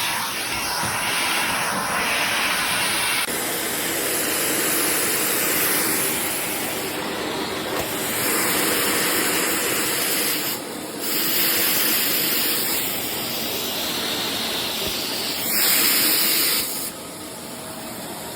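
Miele Classic C1 bagged canister vacuum cleaner running: a steady rushing hiss of suction airflow that shifts in loudness several times. It is loudest for about a second near the end, then drops.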